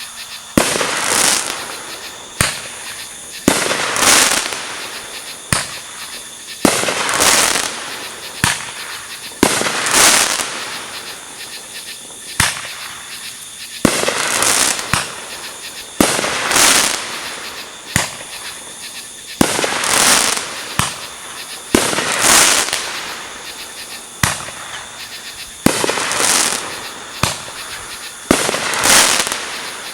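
Fireworks exploding in a steady run of sharp bangs, one to two seconds apart, some coming in quick pairs, each trailed by a short noisy tail.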